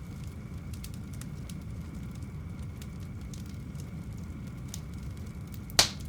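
Wood fire burning in a fireplace firebox, crackling with scattered small snaps over a steady low rumble, and one loud pop near the end.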